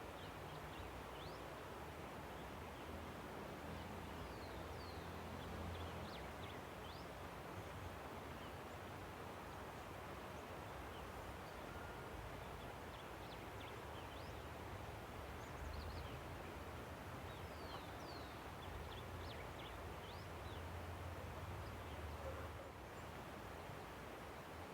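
A river rushing steadily beneath many short, high bird chirps that come in scattered clusters.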